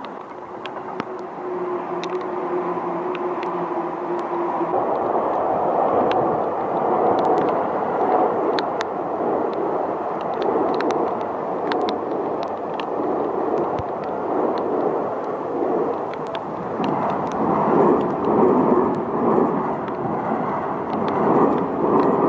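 A vehicle passing in wind and rain: a loud, wavering rush that swells a few seconds in and holds, with scattered sharp ticks of raindrops hitting near the microphone. A steady low hum is heard at the start.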